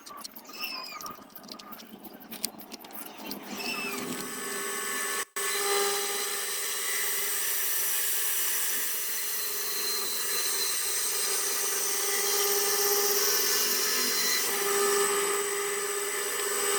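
A handheld electric rotary carving tool running steadily and grinding into wood. It starts in earnest about five seconds in, after a quieter stretch.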